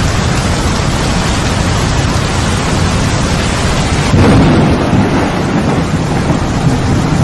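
Heavy rain pouring steadily, with a roll of thunder rumbling in about four seconds in and slowly fading.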